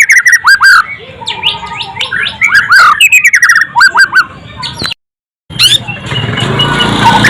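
White-rumped shama (murai batu) singing a rapid run of loud whistled notes, many sliding down in pitch. The sound cuts out for about half a second around five seconds in, then the song goes on over louder background noise.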